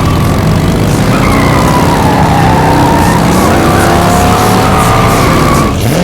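Race-car engine sound effects: engines revving hard, their pitch falling and rising, over a steady low rumble.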